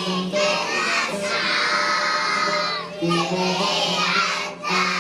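Young children singing an Arabic song loudly over a recorded music backing track.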